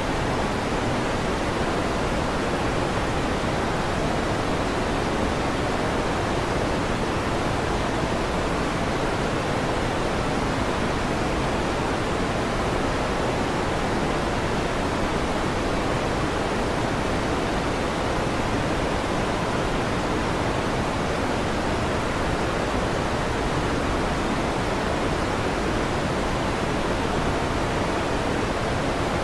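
Electric fan running, a steady, even rush of air noise.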